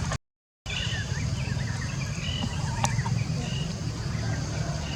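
Steady low outdoor rumble with a string of short, high chirps through the middle and one sharp click near the middle. The sound cuts out completely for about half a second just after the start.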